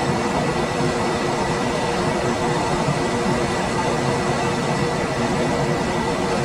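Room air conditioner running steadily: an even rush of blown air with a faint steady hum and a thin whine from the unit's fan and compressor.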